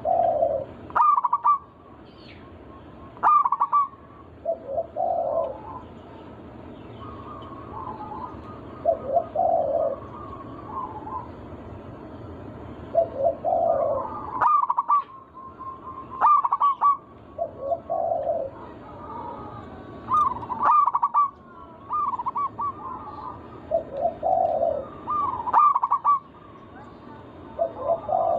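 Zebra dove (perkutut) cooing. Phrases repeat every few seconds, with soft lower notes and clusters of louder, quicker, higher coos, over a steady background hiss.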